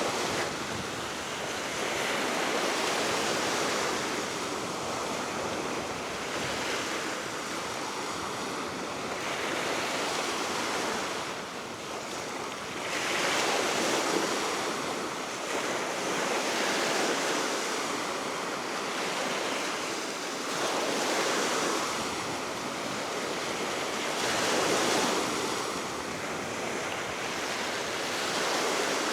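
Waves breaking and washing on the Baltic Sea shore below a cliff, the surf swelling and ebbing every few seconds, with steady wind blowing and some wind noise on the microphone.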